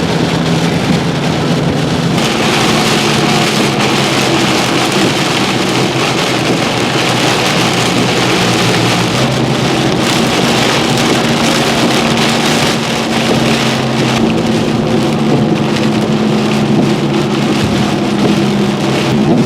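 Heavy rain hitting a moving car, a dense steady hiss, over a steady low engine and road hum.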